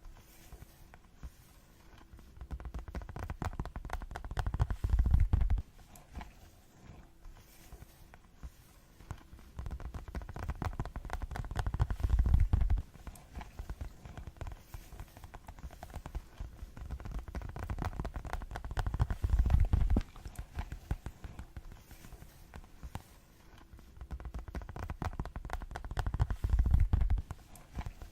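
Fast ASMR tapping with the fingers: rapid, dense taps in four spells of a few seconds each. Each spell builds louder, then stops abruptly, with quiet pauses between them.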